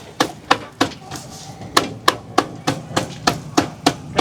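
Rapid, regular sharp blows of a hand tool, about three a second, with a short break about a second in.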